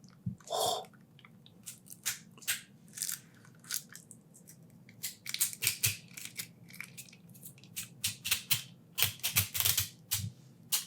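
Wrapping on a sauce being crinkled, squeezed and torn open by hand: an irregular run of sharp crackles and snaps.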